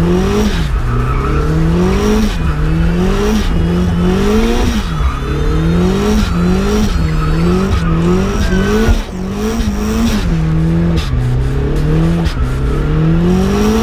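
Turbocharged Nissan SR20DET four-cylinder heard from inside the cabin during a burnout. The revs climb and fall back about once a second as the throttle is worked, over spinning, squealing tyres.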